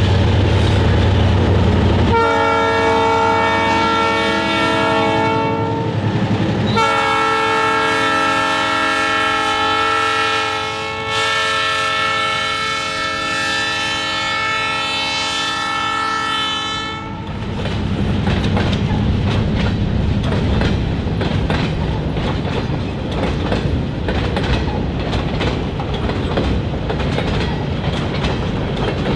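Diesel locomotive rumbles, then its air horn sounds two long blasts of several tones at once, the second held for about ten seconds. After that the freight train rolls past with a steady rumble and wheels clicking over the rail joints.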